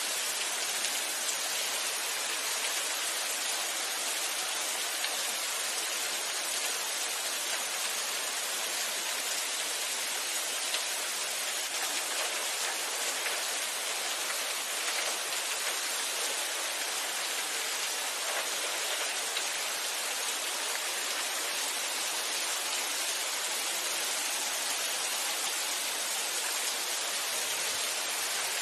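Steady rainfall: a dense, even hiss of rain with no breaks or distinct drops standing out.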